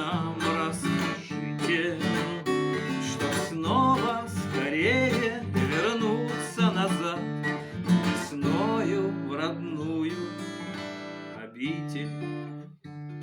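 Instrumental outro of a song: acoustic guitar strumming, with a wavering melody line over it, closing on a final chord that is left to ring out near the end.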